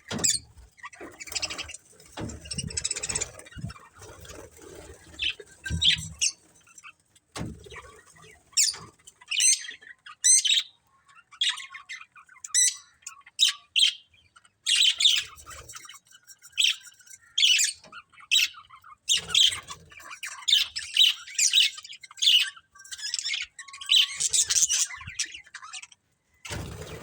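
Pair of budgerigars chirping and squawking in many short, quick calls throughout, with low noise under the calls for about the first six seconds.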